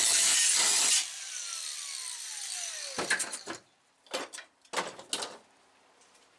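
Angle grinder with a flap disc running, switched off about a second in, its whine falling as the disc spins down. A few clunks and knocks follow as it is handled and set down.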